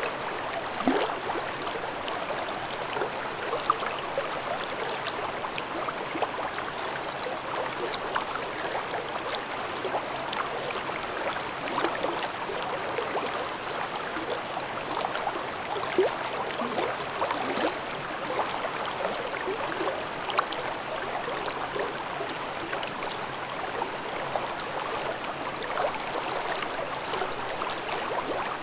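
Mountain stream babbling over rocks: a steady rush of water with frequent small splashes and gurgles.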